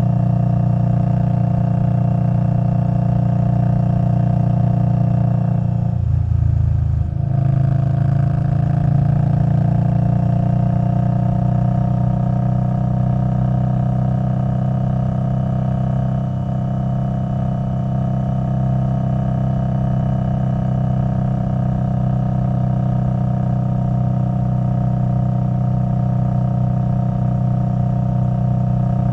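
Liquid-cooled V-twin of an Indian Scout Bobber Twenty running through a Vance & Hines Twin Slash exhaust while riding at a steady cruise. The note breaks off for about a second around six seconds in, then settles back to a steady drone with a slightly changed pitch.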